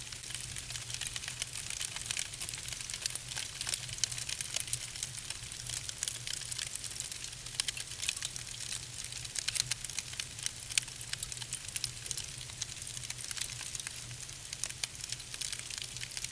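Wood logs burning in a fireplace, crackling with many small, irregular sharp pops over a steady hiss, with a steady low hum underneath.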